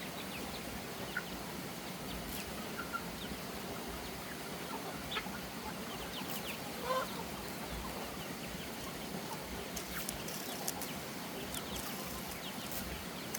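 Chickens clucking now and then over a steady outdoor background hiss, with one louder call about seven seconds in.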